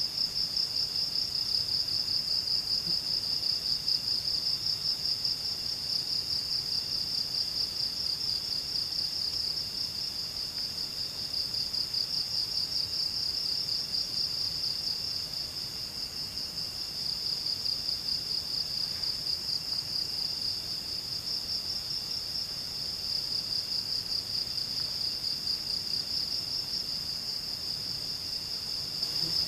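Night insects trilling in a steady, high-pitched, finely pulsing chorus that does not let up.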